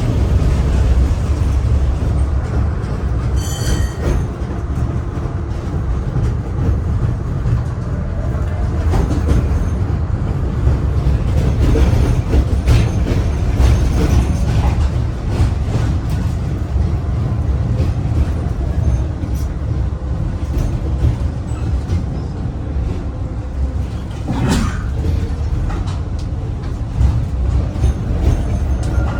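Tram running along its track: a steady low rumble with occasional short knocks and clanks from the wheels and rails, and a brief high ring about three and a half seconds in.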